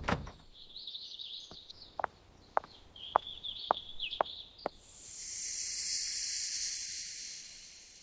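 Seven sharp taps, about two a second, over a high chirping. Near the middle a high hiss swells up and slowly fades out.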